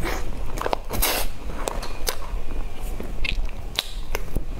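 Close-up eating sounds of a person chewing soft cream cake off a spoon: irregular wet mouth clicks and smacks, with a longer noisy smack about a second in.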